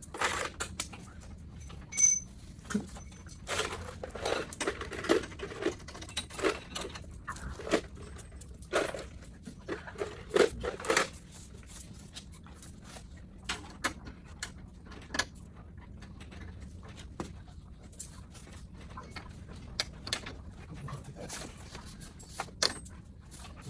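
Irregular clicks, taps and light metallic clatters of small parts being handled, busy for about the first half and then only now and then.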